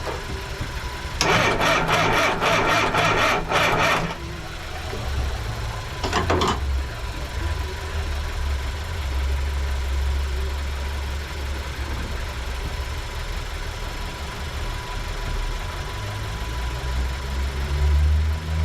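A Mini's engine being cranked on its starter motor, a rhythmic churn for about three seconds, then a brief second crank a couple of seconds later, without clearly catching. A low steady engine rumble runs underneath.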